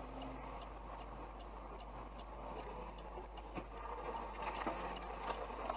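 Steady road and engine noise of a moving car, heard from inside, with faint scattered ticks and clicks. It grows slightly louder toward the end.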